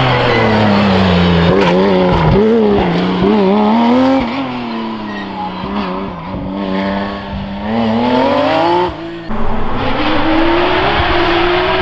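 Porsche rally car engine at full attack, the revs rising and falling through corners and gear changes, then climbing steadily under acceleration in the last few seconds. A brief drop about nine seconds in, where the sound cuts out and comes back.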